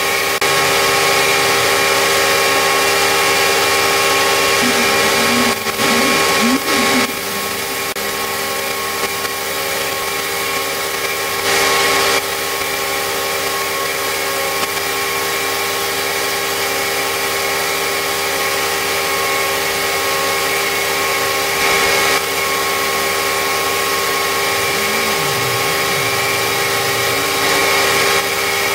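A motor running steadily with a constant multi-tone hum, broken by a few brief louder rasps about six, twelve and twenty-two seconds in.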